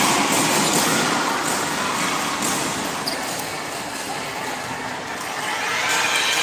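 Spectators' crowd noise in a sports hall during a volleyball match, with a few ball thuds, swelling again near the end.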